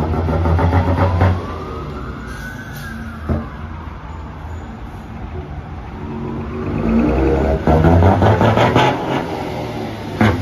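Ford Cargo truck with a modified exhaust being revved: a heavy, rumbling exhaust note with crackle. A whistling tone rises and falls with the revs. The engine is blipped at the start and again in the last few seconds.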